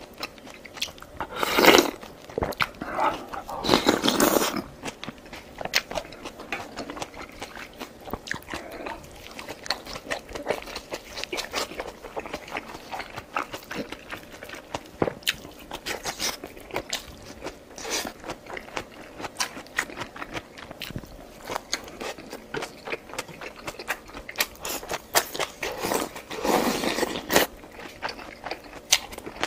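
Eating sounds: chewing with wet mouth noises and many small clicks, and a few louder bursts about two and four seconds in and near the end.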